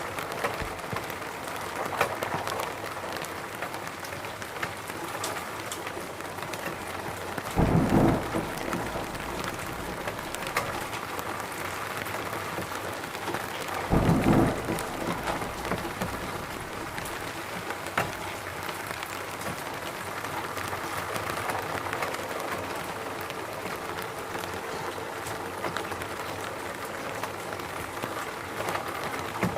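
Steady rain falling in a forest, with scattered drops ticking. Two short, low rumbles of thunder break through, about eight seconds in and again about fourteen seconds in.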